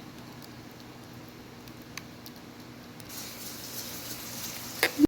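Kitchen noises: a steady low hum with a few light clicks, then a hiss like running water from about three seconds in, and two loud knocks just before the sound cuts off.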